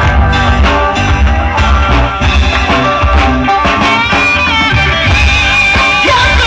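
A small rock band playing live with drums, bass and guitar, with a steady beat. About two-thirds of the way in, a lead line of held, bending notes comes in over it.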